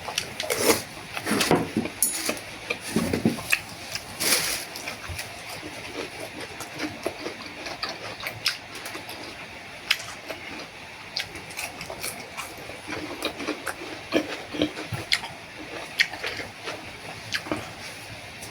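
Close-up eating sounds of boat noodles: slurping noodles and broth and chewing, with many small sharp clicks throughout; the slurps are loudest in the first few seconds.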